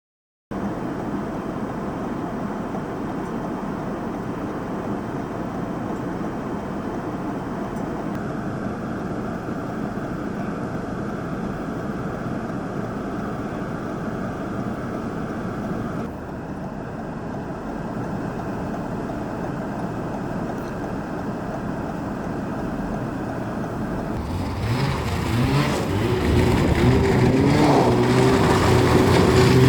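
A steady rushing noise with no clear pitch, then, about 24 seconds in, a snowmobile engine comes in louder and revs up with a rising pitch.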